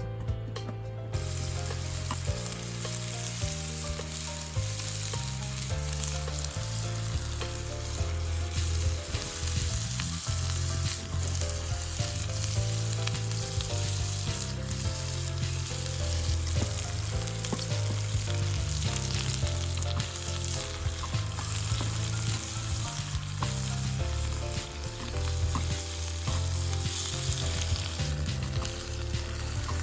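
Food frying and sizzling in a pan, a steady hiss with small crackles, under background music with a bass line.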